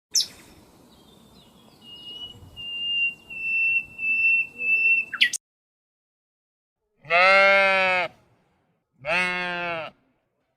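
A high, thin whistle-like tone held for about five seconds, then a goat bleating twice, loud and each call about a second long.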